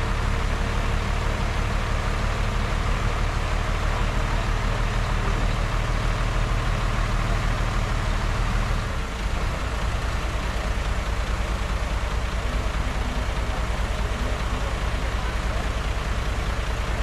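Heavy diesel engine of earthmoving machinery running steadily, its low note dropping about halfway through.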